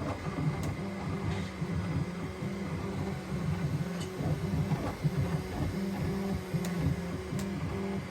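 Bambu X1 Carbon 3D printer running a print: its stepper motors whine in short tones that jump in pitch as the print head changes moves, with a few faint clicks.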